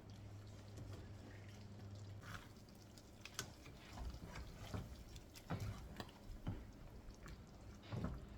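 A pot of chicken pepper soup bubbling on the stove, with soft scattered clicks and ticks. A low hum stops about two seconds in.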